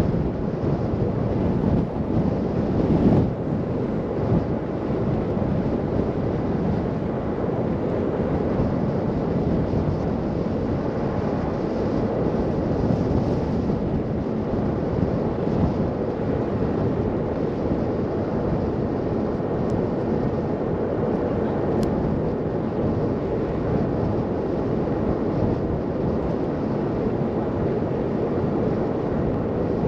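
Steady rushing wind and car road noise during a drive through a snow blizzard, with a few louder gusts in the first few seconds.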